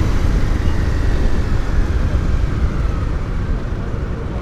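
Steady wind and road noise while riding a motorcycle through city traffic: a constant low rumble.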